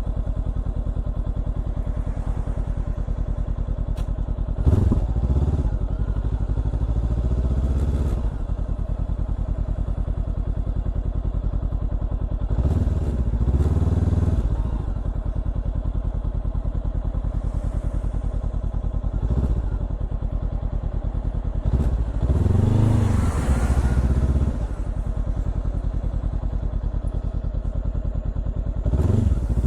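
Honda CBR400R's parallel-twin engine through a Trick Star Ikazuchi exhaust, running steadily and swelling in pitch and level with about five bursts of throttle before settling back each time.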